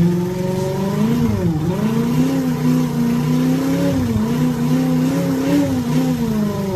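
Big-bike style engine sound from a motorcycle sound booster, held at a steady fast run. Its pitch dips and recovers at about a second and a half in, and briefly again around four seconds. It cuts in and out abruptly.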